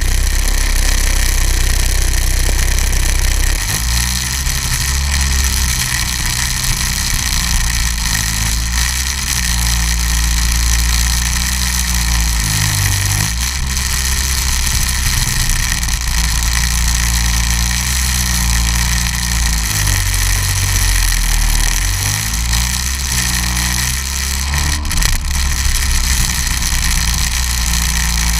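Snowmobile engine running steadily, its pitch stepping up and down as the speed changes.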